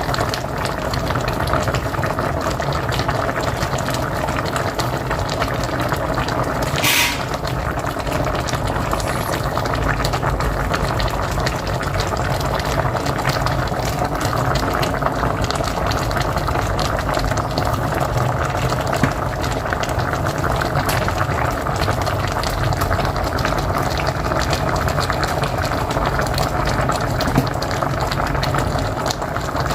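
Pot of mocotó (cow's feet) boiling on a wood-fired stove: steady, dense bubbling, with a brief high hiss about seven seconds in.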